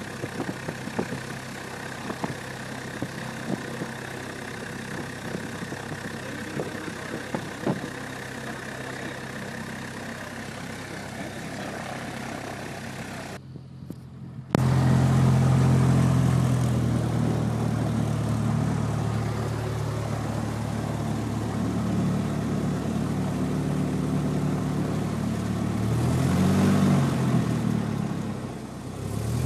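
Cessna 172P's four-cylinder Lycoming engine and propeller running at low power, steady, with small clicks over it. After a brief dropout about halfway it runs louder and deeper, and near the end its pitch swings up and back down.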